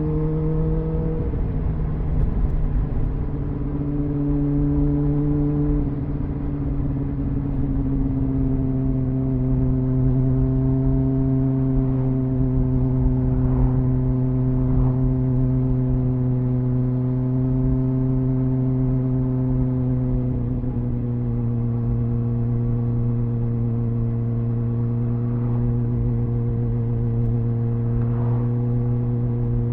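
Triumph Speed Four's 600cc inline-four engine on its stock exhaust, heard from onboard while riding at steady revs. The engine note drops about a second in, again about six seconds in and slightly about twenty seconds in, then holds steady, over a low rumble of wind and road.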